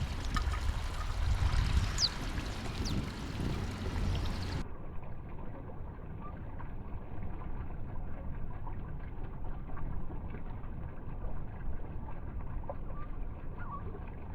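Outdoor background noise, a steady rushing haze with low rumble, with a few short descending bird chirps in the first few seconds. A little under five seconds in, the sound changes abruptly to a duller, quieter hiss with only faint, scattered chirps.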